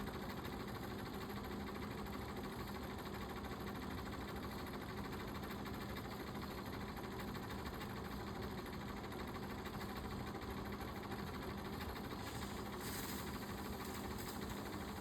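Dirt bike engine running steadily at an even speed, a constant hum under a noisy rush, with no revving.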